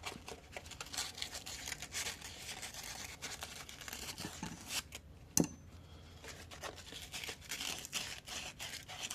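ATV brake caliper's metal locking pins being rubbed clean by hand, a rapid scratchy rasping in quick irregular strokes, with one sharp click about five seconds in.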